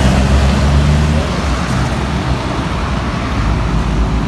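Road traffic: a motor vehicle's engine rumbling close by, loudest in the first second or so, over steady road noise.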